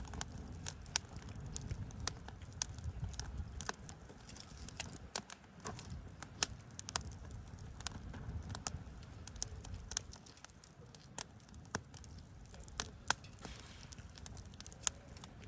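Wood campfire crackling, with irregular sharp pops and snaps scattered throughout, over a low, gusty rumble of wind on the microphone.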